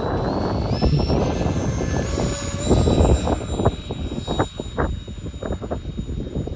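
Whine of the FMS A-10's twin 70mm electric ducted fans, rising in pitch in steps as the throttle is advanced and then holding steady, over the low, uneven rumble of gusty wind on the microphone.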